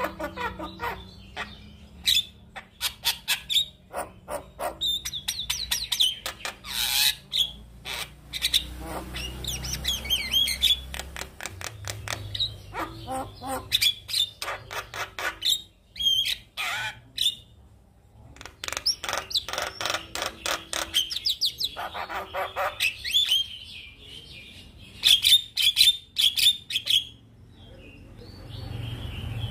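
Male Javan myna in full song: fast runs of harsh clicks and rattles mixed with whistled notes, in bursts with short pauses between them.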